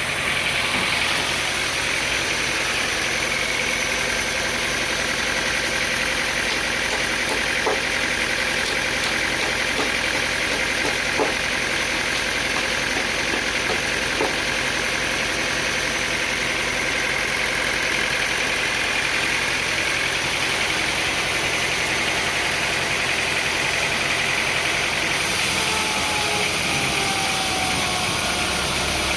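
An engine running steadily, with a few brief clicks in the first half and a change in its note near the end.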